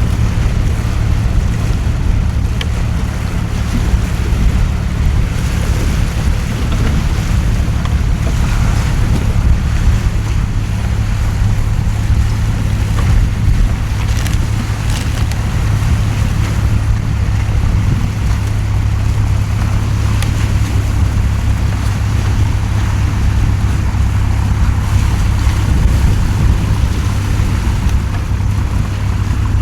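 Heavy downpour in a storm: a steady hiss of rain over a strong, continuous low rumble of wind buffeting the microphone.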